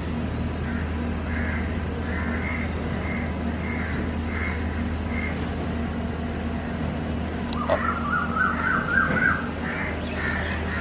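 Birds calling: evenly spaced calls, about two a second, through the first half, then a quicker run of about eight calls about three-quarters of the way through, over a steady low hum.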